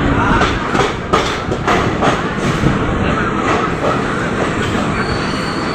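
Hyderabad Express passenger train running on the rails: a steady rumble with the wheels clattering over rail joints, a cluster of clicks about a second in.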